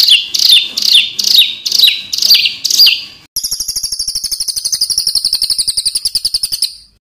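Songbird song of the harsh 'tembakan' kind used to tutor cage birds: about seven loud, high, downward-sweeping notes, two a second, then a rapid buzzy trill lasting about three and a half seconds that cuts off abruptly.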